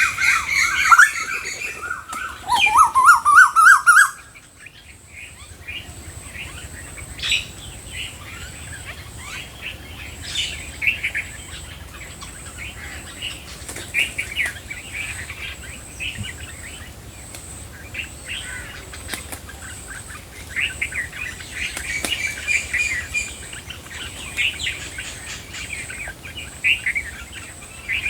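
Birds chirping and calling. A loud, busy burst of close calls, including a quick run of rising notes, breaks off suddenly about four seconds in. Fainter, scattered chirps follow over a thin, steady high whine.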